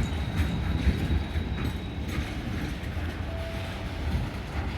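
c2c electric multiple unit standing at the platform: a steady low rumble with a thin high whine over it for the first two seconds and a brief tone a little after three seconds.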